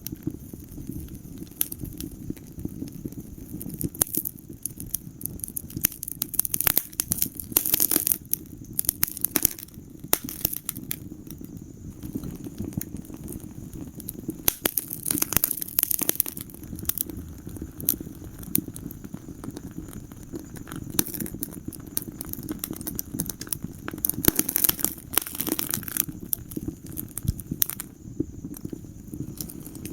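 Wood fire burning in a fireplace: frequent irregular crackles and pops over a steady low rumble of flames.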